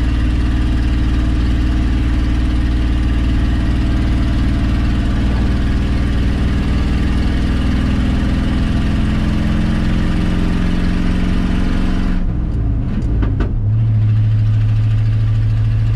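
Old Ford F350 pickup engine pulling hard under load, towing a loaded gooseneck trailer up a long hill in third gear, its pitch slowly rising. About twelve seconds in, a few clicks are heard and the engine note changes to a lower, steadier hum.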